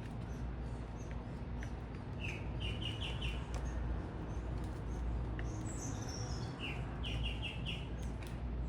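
Songbirds singing at a feeder: a short phrase of about five quick notes given twice, and a higher, falling run of notes about six seconds in, over a steady low background rumble.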